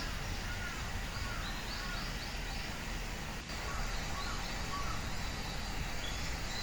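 Wild songbirds chirping in a tree: runs of short, quickly repeated high notes with some lower slurred notes, over a steady low rushing background.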